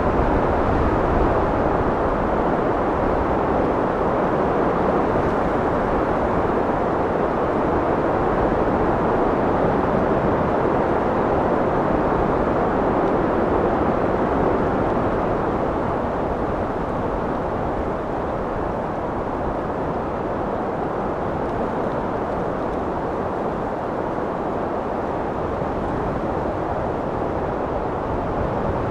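Strong wind blowing steadily, a dense low rushing noise that eases slightly about halfway through.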